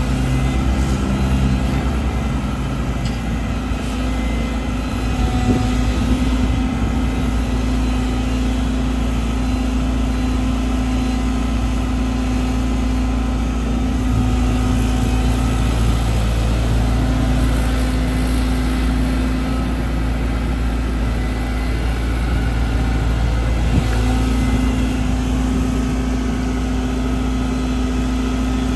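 Caterpillar 313GC excavator's diesel engine running steadily, its note shifting up and down now and then as the machine works.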